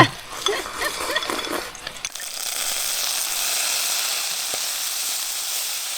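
Fish pan-frying, a steady sizzle that starts abruptly about two seconds in. Before it come faint voices and light clatter.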